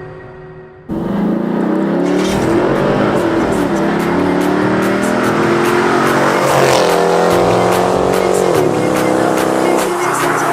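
Dodge Charger SRT8's V8 accelerating hard, starting suddenly about a second in. The engine note climbs steadily for several seconds, then drops sharply near the end as it shifts up and keeps pulling.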